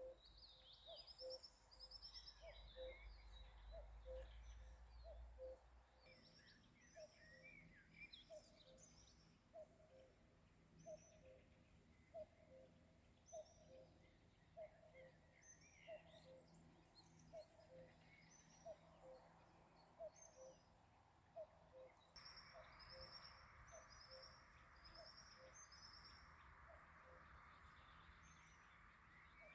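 Faint evening birdsong: high chirping phrases over a low, short call repeated about once a second, with a soft background hiss that changes about six seconds in and again about 22 seconds in.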